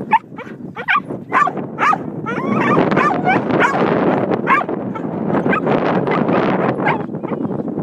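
A dog yipping and whining in quick, high, repeated cries. Through the middle there is a loud, even rushing noise.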